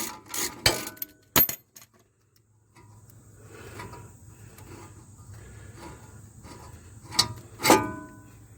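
Metal tools and brake parts clinking and clanking as they are handled, with a few sharp clicks early on and two louder clanks close together near the end.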